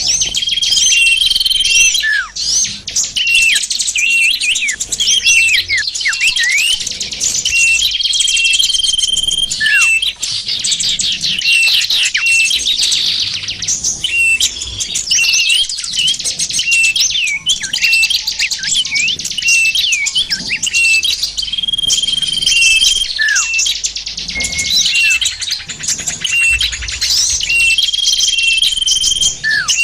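Bird-lure recording of many small songbirds chirping and calling together in a dense, continuous chatter. Short held whistles and quick downward-sliding notes recur every several seconds over the busy chirping.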